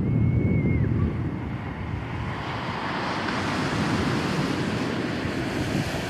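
Sea waves rushing in, with wind buffeting the microphone in low gusts. A brief high whistling tone sounds near the start and drops in pitch before fading.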